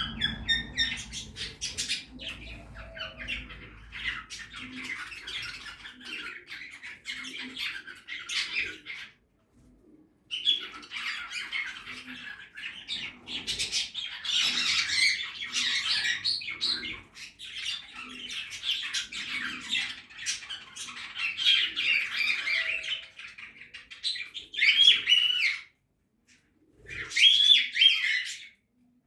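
A flock of budgerigars chattering and squawking, with sharper single calls standing out near the end. The chatter breaks off briefly twice.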